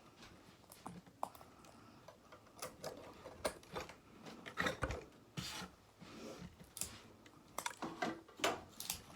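Faint handling noises: scattered light clicks, taps and rubbing as small objects are moved about.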